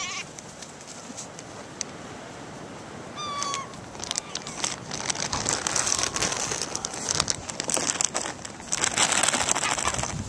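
Gulls calling: two short mewing calls, one at the start and one about three seconds in. These are followed by several seconds of dense crackling and rustling that grows louder toward the end.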